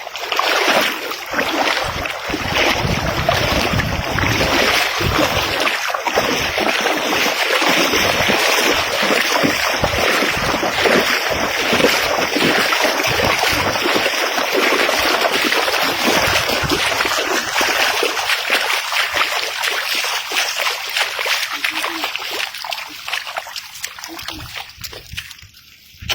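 River water splashing and sloshing heavily and continuously, dying down over the last few seconds.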